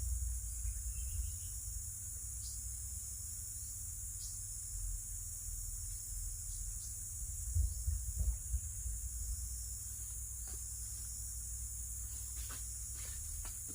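Steady high-pitched chorus of forest insects, with a low rumble underneath that swells about eight seconds in and a few faint clicks near the end.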